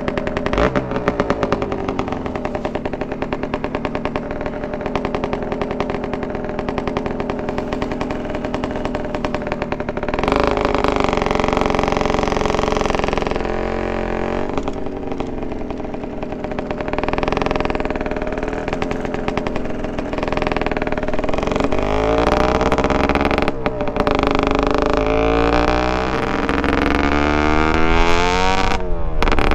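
Suzuki TSR 125's single-cylinder two-stroke engine through a DEP aftermarket exhaust, idling steadily for about ten seconds, then louder and revved repeatedly, its pitch rising and falling.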